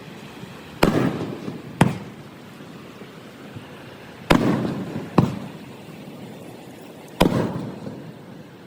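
Aerial fireworks shells bursting: five sharp bangs in two pairs and then a single one, each followed by a rolling rumble that dies away.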